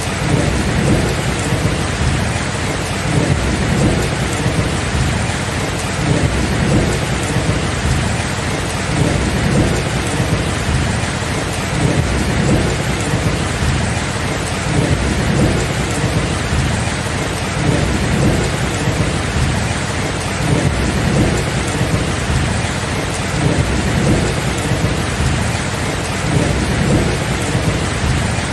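Steady rain with low thunder rumbling underneath, swelling and easing every few seconds.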